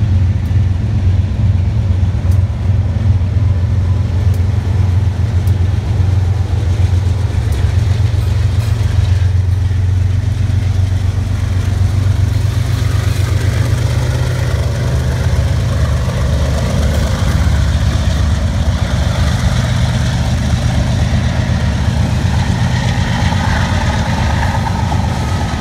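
BNSF diesel-electric freight locomotives rumbling loudly as they pull a train past at close range. From about halfway, louder wheel-and-rail noise builds as the trailer-carrying cars follow.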